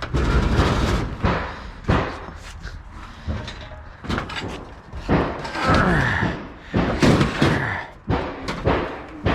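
Repeated thuds, bangs and scraping as scrap metal is loaded onto a trailer.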